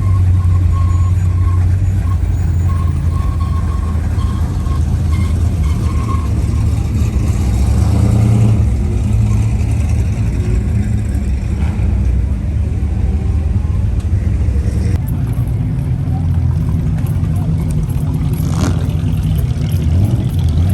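A motor vehicle running with a steady low rumble, while a reversing beeper sounds a row of short beeps at one pitch through the first six seconds or so.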